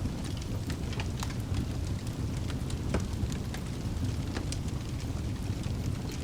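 Wood fire burning in a fireplace: a steady low rumble of the flames with irregular sharp crackles and pops from the logs, one louder pop about three seconds in.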